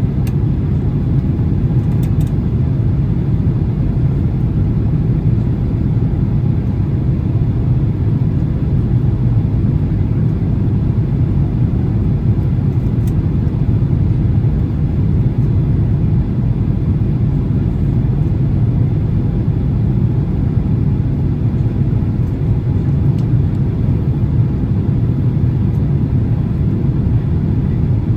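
Steady low rumble of engine and airflow noise inside the cabin of a Boeing 767-300 in flight, with a few faint ticks.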